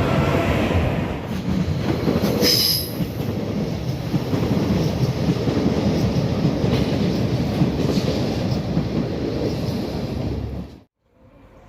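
Train running past at close range, loud rolling wheel-and-rail noise, with a brief high-pitched wheel squeal about two and a half seconds in. The sound cuts off suddenly near the end, leaving a much quieter background.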